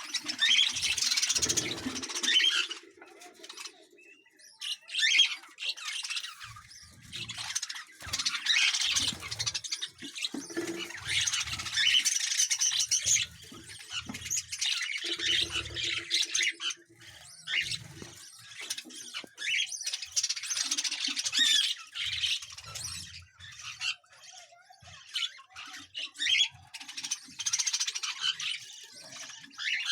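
Budgerigars chattering and squawking in bursts of a few seconds, with short pauses between.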